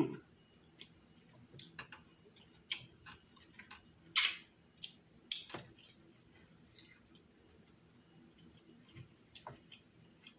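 A person chewing a mouthful of seafood-boil crab meat, with scattered wet mouth clicks and smacks; a few louder mouth sounds come about four and five and a half seconds in.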